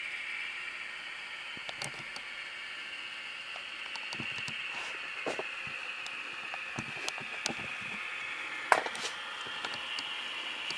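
Model genset locomotive with a Tsunami sound decoder running on track, its small speaker playing the diesel engine sound as a steady hum, with scattered sharp clicks, the loudest near the end.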